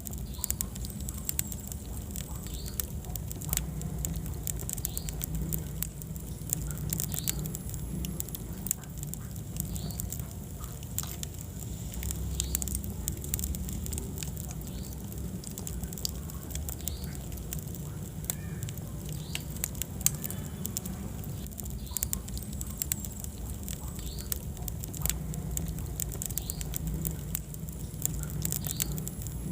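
Wood fire in a fireplace crackling: many irregular sharp pops and snaps over a low rumble of flames, with one louder pop about twenty seconds in.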